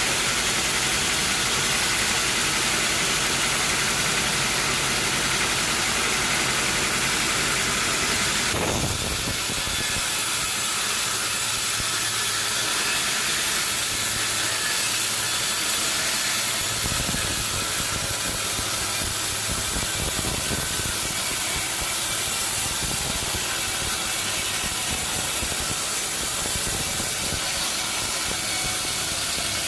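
Sawmill machinery running: a steady engine with a loud hissing saw noise over it, changing abruptly about eight seconds in.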